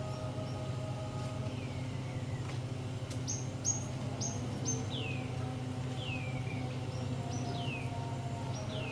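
A bird calling: a few short high chirps about halfway in, then a run of quick downward-sliding calls about once a second, over a steady low hum.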